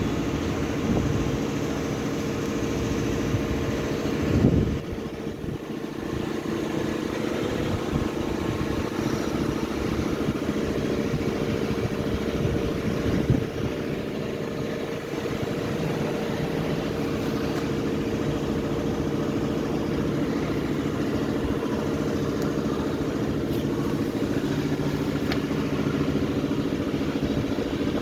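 Maruti Suzuki Swift Dzire petrol engine idling steadily, with a couple of brief knocks about four and thirteen seconds in.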